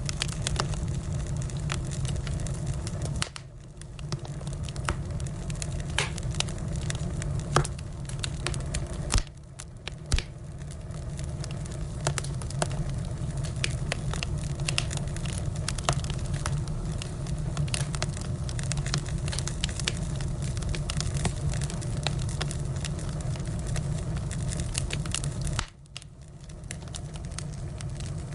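Wood fire burning: steady crackling with frequent sharp pops from the burning firewood over a low steady rumble, briefly quieter three times.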